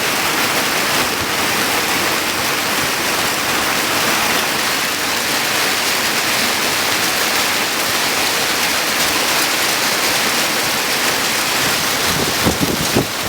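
Heavy thunderstorm rain falling in a loud, steady, dense hiss. A few low thumps come near the end.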